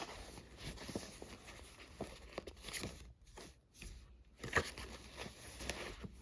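Scattered soft clicks and taps with light rustling, irregularly spaced, the sharpest click about four and a half seconds in.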